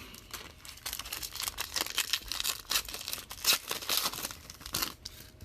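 Plastic packaging being crinkled and torn, a dense, irregular run of crackles that thins out near the end.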